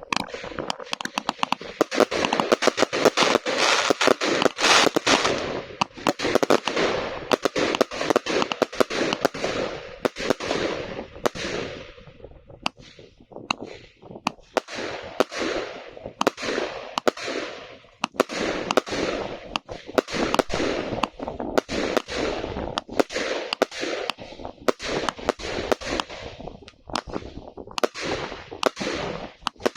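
Professional compact firework cake (Kompakt Show Box No. 5 'Snowstorm') firing a rapid, continuous barrage of sharp bangs with crackle between them, easing briefly a few times before picking up again.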